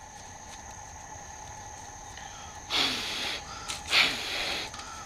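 Three short puffs of breath blown over a small bird's body feathers, starting a little past halfway, parting the feathers to check the banded male for breeding condition.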